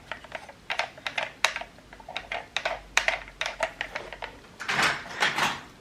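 Small plastic toy vehicles being handled, giving a string of light, irregular clicks and clacks, with two short rustles near the end.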